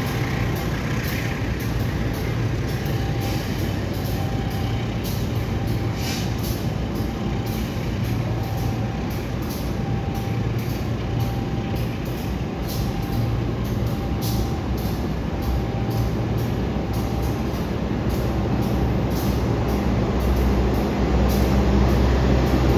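Long-distance passenger train's coaches passing on the station track: a steady rumble of wheels on rail with a light clatter, growing a little louder near the end.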